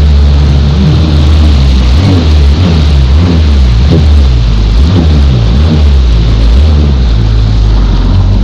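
Stand-up jet ski engine running and revving up and down, with a heavy low rumble.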